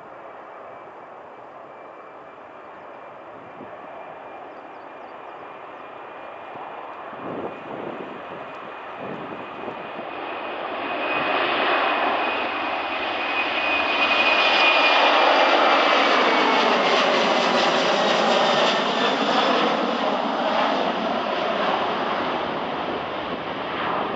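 Airbus A330 jetliner's engines at takeoff power, swelling from distant to loud about two-thirds of the way through as the aircraft passes, then easing. A thin high whine runs through it and sinks slightly in pitch as it goes by.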